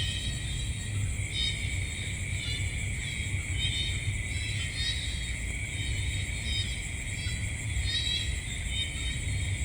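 Night insect chorus: a steady high crickets' trill, with clusters of short chirping calls repeating about once a second over a steady low rumble.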